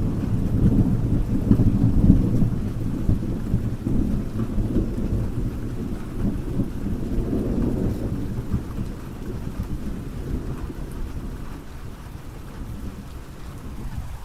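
Rain falling steadily under a long, low rumble of thunder that is loudest in the first few seconds and slowly dies away.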